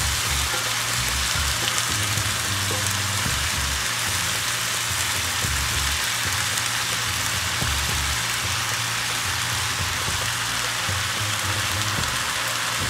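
Chicken, onion, tomato and bell pepper sizzling steadily in oil in a frying pan while zucchini pieces are piled in.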